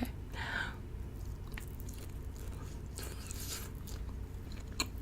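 Close-miked chewing of an octopus-cut hot dog sausage: soft wet mouth sounds with a few small clicks and a brief louder stretch a little past halfway, over a steady low hum.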